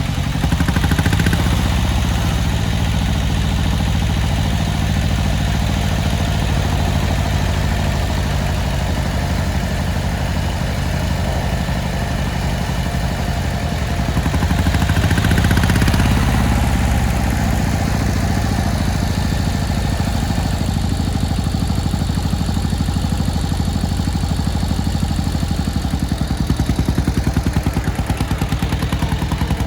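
Kubota L175 tractor's two-cylinder Z750 diesel engine running steadily. About halfway through it speeds up briefly, then settles back.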